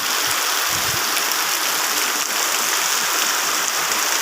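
Heavy tropical rain pouring down in a steady, dense hiss, with faint scattered drop ticks.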